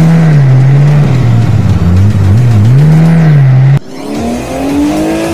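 Car engine revving, its pitch swinging up and down through several rises. About four seconds in it cuts off abruptly and a higher single rev rises and falls.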